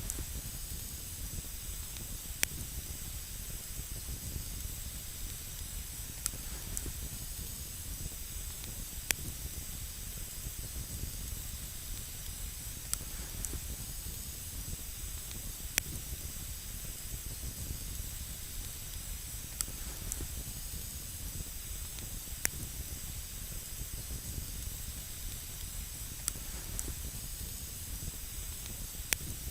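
Wood campfire burning with a steady hiss, broken by sharp single crackles every couple of seconds.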